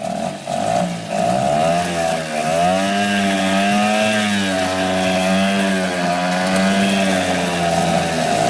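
Small boat motor running with a buzzing tone, its pitch rising and falling again and again as the speed changes.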